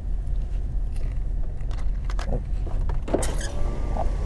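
Car engine idling with a steady low rumble, heard from inside the cabin, with a few light clicks and rustles over it.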